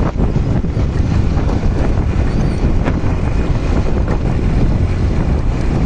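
Wind buffeting the microphone of a moving motorbike, a loud, steady low rumble.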